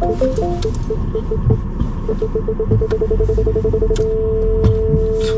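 Car parking-sensor beeps coming faster and faster until they merge into one continuous tone about four seconds in, which signals that an obstacle is very close. A short chime of a few notes sounds at the start, over the low rumble of the car.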